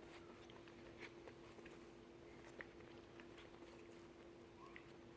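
Near silence over a steady hum, with scattered faint clicks and taps of puppies playing: claws on the floor and mouths on toys. The clearest taps come about a second in and about two and a half seconds in.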